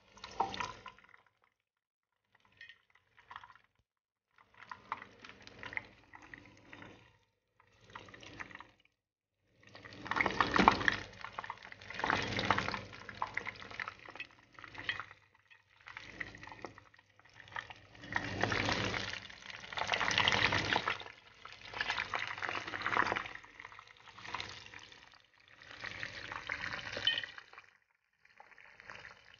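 Wrapped pastries deep-frying in a pan of hot oil, sizzling and crackling. The sizzle comes and goes with short silent gaps in the first ten seconds, then runs louder and denser.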